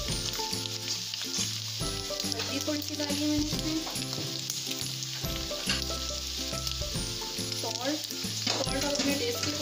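Boneless chicken pieces sizzling as they fry in oil in a non-stick pan, under background music with a low bass line that changes note every second or two.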